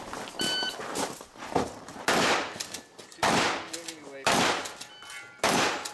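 A short electronic beep, then shotgun shots fired in quick succession, about one a second: four loud blasts after a fainter first one, each trailing off in echo.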